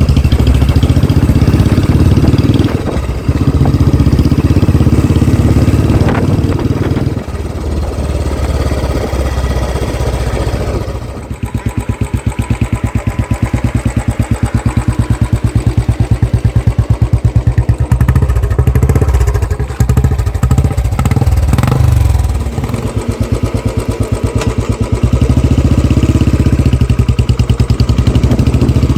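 Royal Enfield Classic 350's single-cylinder engine running through an aftermarket Barrel 'Canon' exhaust. It runs steadily and loud at first, drops to slow, evenly spaced exhaust thumps at low revs about eleven seconds in, and picks up again after about twenty-two seconds.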